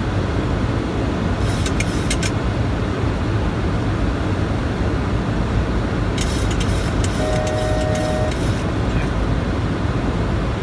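Steady rushing flight-deck noise of an airliner on approach, airflow and engines heard from the cockpit, with a few faint clicks and a brief steady tone about seven seconds in.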